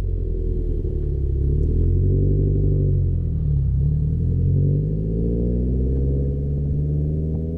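Turbocharged Subaru flat-four engine through an aftermarket exhaust, its pitch rising, dipping about halfway through, rising again and falling near the end as the car is driven and revved.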